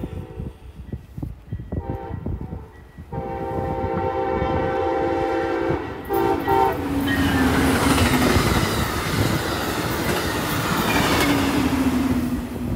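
Amtrak Midwest Siemens Charger diesel locomotive sounding its chime horn as it approaches: a short blast, a long one of about three seconds, then a brief one. About seven seconds in, the train passes close at speed, a loud rush of wheels and engine with a tone that drops in pitch as it goes by.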